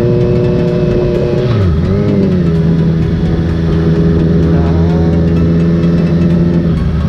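Motorcycle engine running under way at a steady pitch. About one and a half seconds in, the revs drop and then pick back up, as at a gear change.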